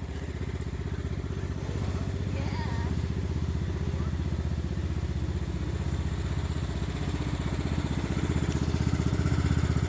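Tractor engine running steadily with a fast, even beat, getting slightly louder near the end.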